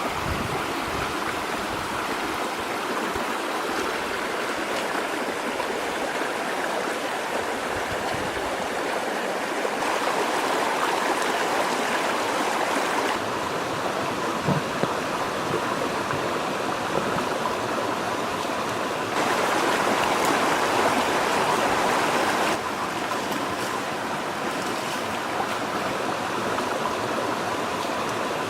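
River water flowing in a steady rush, which jumps louder and softer abruptly a few times.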